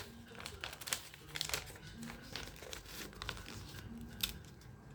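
A sheet of paper being handled, folded and creased into a paper airplane: irregular short rustles and crinkles.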